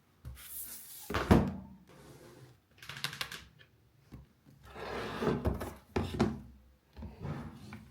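A few knocks, thuds and rustles from things being handled and set down in a small room, the loudest thud about a second in.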